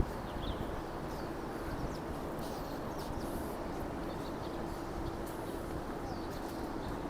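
Steady outdoor background noise with a faint steady hum, and birds chirping faintly now and then.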